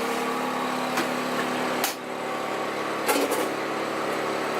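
Steady hum of a food truck's onboard machinery, several held tones, with a few sharp knocks and a short clatter a little after three seconds from salad being handled at the prep counter.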